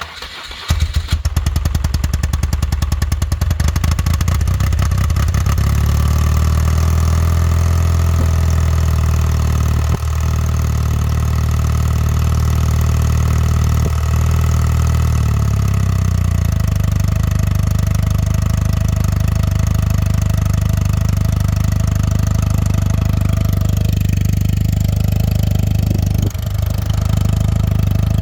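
BMW R100RS air-cooled flat-twin boxer engine started from cold: it cranks briefly, catches within about a second and then idles steadily, its note changing about sixteen seconds in as the idle settles.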